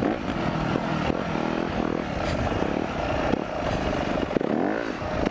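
Four-stroke dirt bike engine, a Yamaha YZ250F, revving up and down under throttle during a wheelie attempt, with a sharp rise and fall in pitch near the end. Wind rushes over the helmet-cam microphone.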